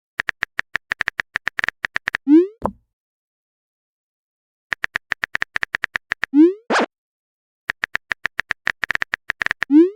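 Chat-app sound effects: runs of rapid keyboard typing clicks, each run followed by a short rising bloop and a pop as a message is sent. This happens three times.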